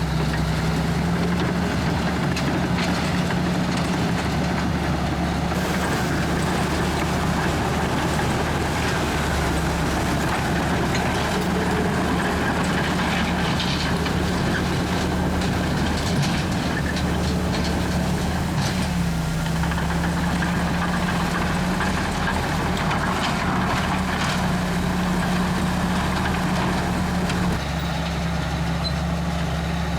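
Komatsu D61EX bulldozer's diesel engine running steadily, its pitch stepping up and down slightly a few times, with intermittent scraping and clatter of tracks and rock.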